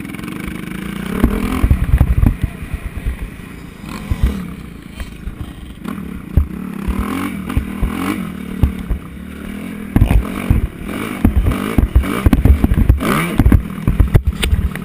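Motocross bike engine being ridden hard, its pitch rising and falling again and again with the throttle. Many loud, short low thumps and rattles run through it.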